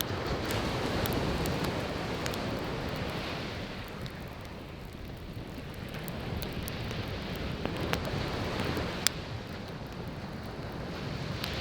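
Wood fire crackling with scattered sharp pops over waves breaking and washing on the shore, the surf swelling, easing off in the middle, then building again. One louder pop stands out about nine seconds in.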